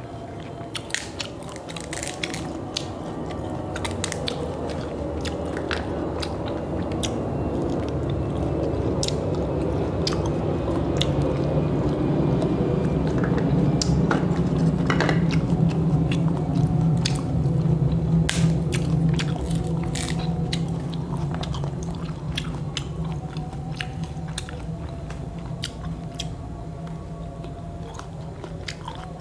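Close-up eating of motoa fruit: rinds cracking and tearing open under the fingers, with wet chewing and mouth clicks. Under it a low hum swells up through the middle and fades away again.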